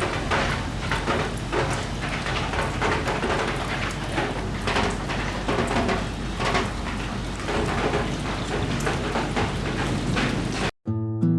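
Steady rain falling, a dense patter of drops over a low steady hum. It cuts off sharply near the end, where plucked acoustic guitar music begins.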